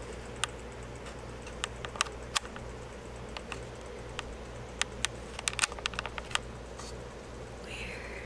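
About fifteen light, sharp clicks at irregular intervals, bunched in a few quick clusters, over a steady low electrical hum.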